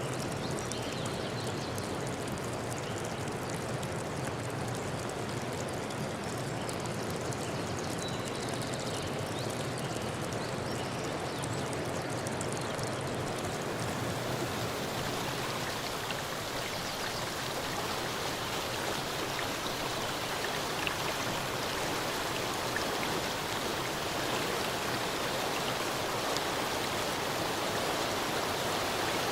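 Steady rushing water, growing a little brighter and louder in the second half.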